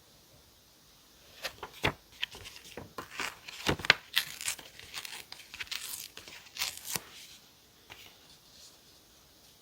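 Paper being torn and crinkled during diary decorating: a run of short rips and rustles from about a second and a half in to about seven seconds in.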